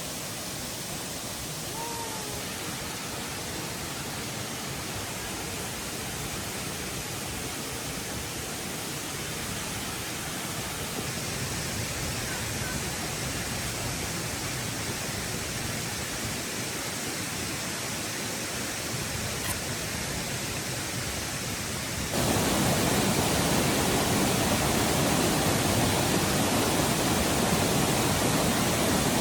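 Steady rushing noise with no clear rhythm, which jumps louder about 22 seconds in.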